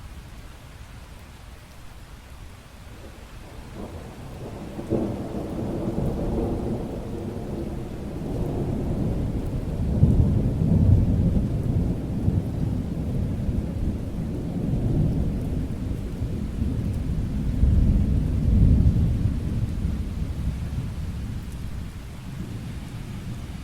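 Thunder rumbling over steady rain: a long low roll that builds about four seconds in, swells loudest twice, then fades away near the end.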